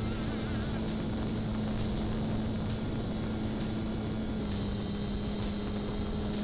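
Homemade RC model airplane's motor and propeller running steadily, a low hum with a high whine above it; the pitch dips slightly about four and a half seconds in.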